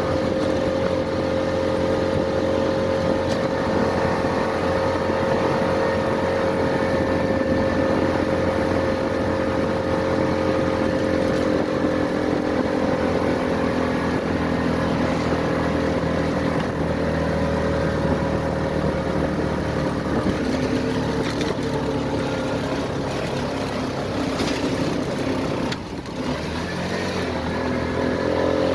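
An engine running at a steady speed, with a brief drop in level about 26 seconds in and the pitch rising near the end as it speeds up.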